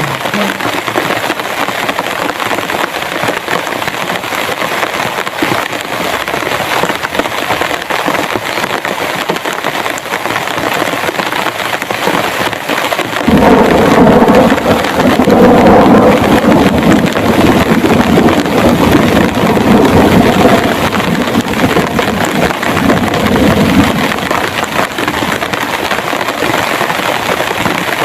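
Heavy rain pouring steadily, with a loud rumble of thunder breaking in about halfway through and rolling on for around ten seconds before fading back to the rain.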